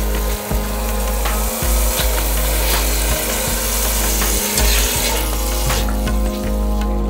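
Marinated chicken pieces sizzling and frying as they are laid into hot oil with diced tomatoes in an enamelled cast iron pot, with small clicks as each piece goes in. The sizzling dies down about six seconds in.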